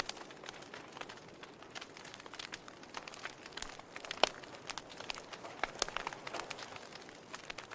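Wood fire crackling in a fireplace: irregular sharp pops and snaps of burning logs over a soft hiss, with one louder pop about four seconds in.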